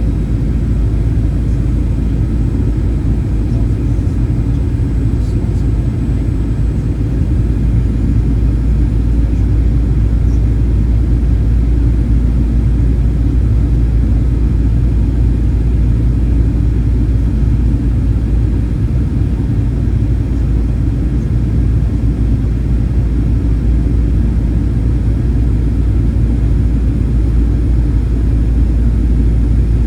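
Steady low rumble of a Boeing 737-800's CFM56 jet engines and the rushing air, heard from inside the passenger cabin in flight.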